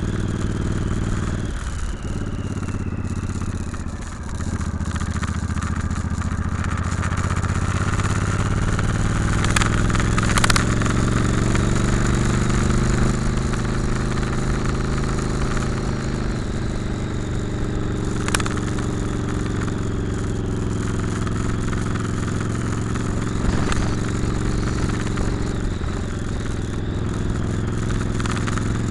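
Motorcycle engine heard from the bike while riding: the throttle eases off briefly about two and four seconds in, then the engine pitch climbs for several seconds as it accelerates and settles into a steady cruise. A few sharp knocks come through along the way.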